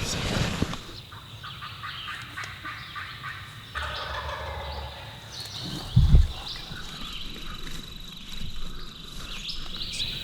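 Eastern wild turkey gobbling once, a rapid rattling call about four seconds in. A short low thump near six seconds is the loudest sound, over a steady high insect drone.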